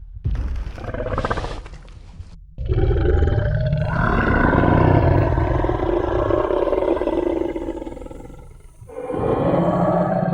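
Tyrannosaurus rex roar sound effect: a short growl, then one long, loud, deep roar lasting about six seconds, and a second roar starting near the end.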